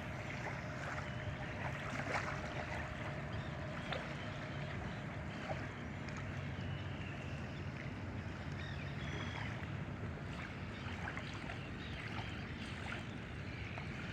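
Steady outdoor background rumble and hiss with a low hum underneath, and a couple of faint knocks a couple of seconds in.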